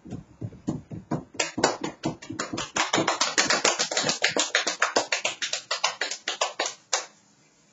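Hand percussion: soft taps a few times a second, swelling about a second and a half in into rapid, sharp hand strikes, several a second, that stop suddenly near the end.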